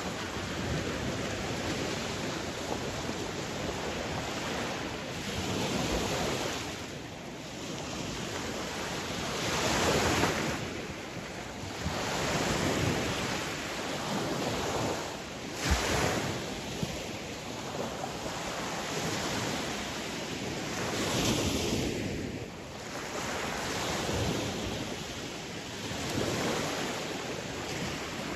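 Sea waves washing ashore over a steady rush of surf, each wave swelling and fading every three to five seconds. A brief low thump comes about halfway through.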